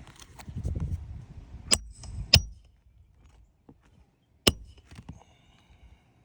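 Three sharp hammer blows on a roof snake nail-driving tool, driving roofing nails under a lifted shingle, the first two with a brief metallic ring. Low rustling of handling comes before them and a few lighter knocks after.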